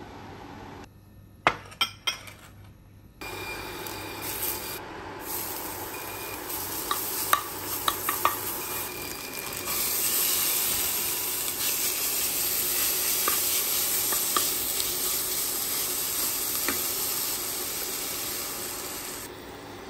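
A few sharp clicks of tongs against a ceramic bowl, then chopped chillies and garlic sizzling in a non-stick frying pan with some utensil taps. About halfway through, minced chicken goes into the pan and the sizzling gets louder and stays steady.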